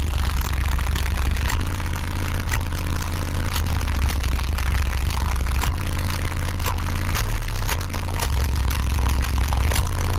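Car subwoofers playing loud, deep bass notes that step between lower and higher pitches every second or two, with short clicks and rattles over the top.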